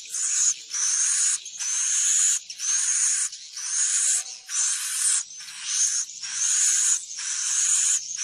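Edible-nest swiftlet calls played as a roosting lure for a swiftlet house. About ten high, raspy twittering calls follow one another, each under a second with a short gap between. Each has a thin rising whistle running through it.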